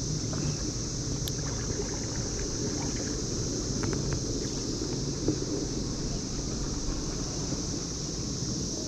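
Steady, unbroken high drone of a periodical cicada chorus, over a low rumble of wind and water noise.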